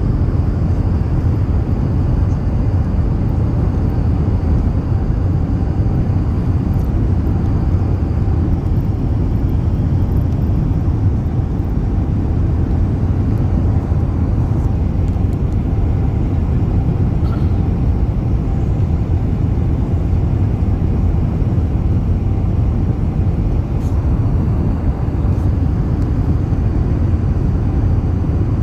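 Steady low rumble of an Emirates Airbus A380 descending to land, with a faint steady tone above the rumble.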